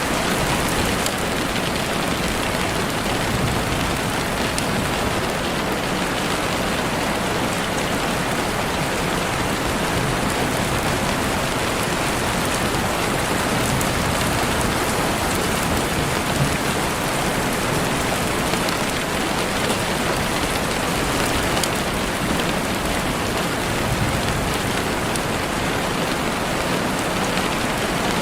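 Heavy rain falling steadily on leaves and the forest floor, a dense even hiss with scattered drops ticking through it.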